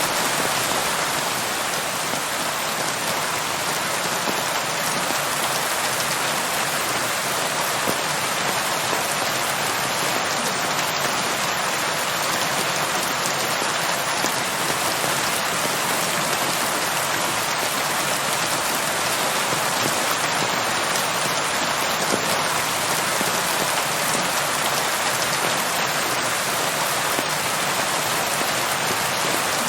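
Steady rain falling, an even hiss of many drops spattering on a surface, unchanging in strength.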